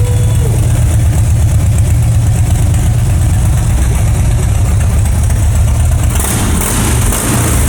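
Harley-Davidson Dyna V-twin running through a Vance & Hines Big Radius 2-into-1 exhaust, idling steadily with a deep, loud note. About six seconds in, a hissing noise joins the engine sound.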